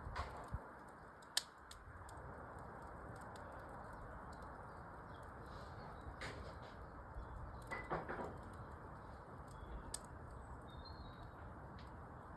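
Wood fire in a fireplace burning with a steady low hiss and a few sharp crackling pops. Faint bird chirps come in near the end.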